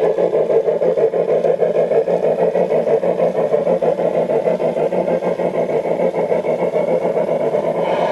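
Model train running on the layout: a steady, fast, even pulsing sound.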